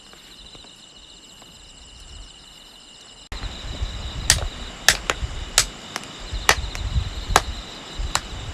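Crickets chirping steadily in the background. A little over three seconds in, the sound cuts abruptly to a louder stretch of about a dozen sharp clicks, under a second apart, over low thumping handling noise.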